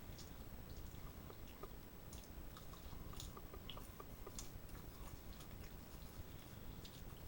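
A person chewing a chicken sandwich, faint and close: scattered small irregular clicks and smacks.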